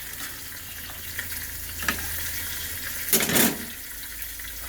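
Food frying in hot oil in a pan, a steady sizzle, with a short louder clatter a little past three seconds in and a lighter one just before two seconds.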